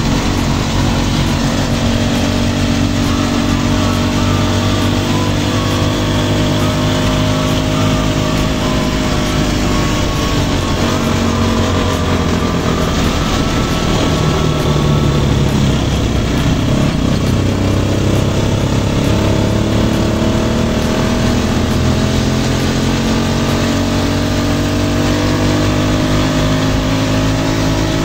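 Motorcycle engine running under way, its pitch falling about a third of the way in as it slows and climbing again past the middle as it picks up speed, with a steady rush of wind and road noise beneath it.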